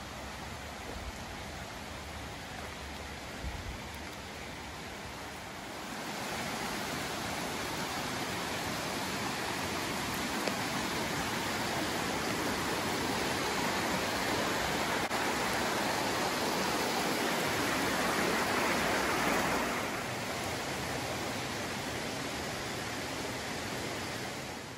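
Steady rushing of a large waterfall, Aber Falls. It grows louder about a quarter of the way in and eases back somewhat near the end.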